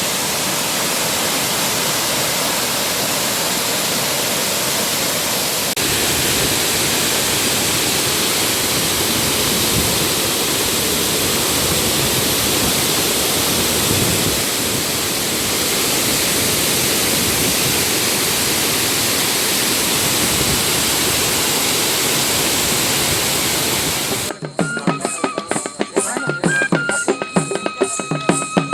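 Steady roar of a large waterfall, the Chitrakoot Falls on the Indravati River. It cuts off suddenly near the end and rhythmic drum music begins.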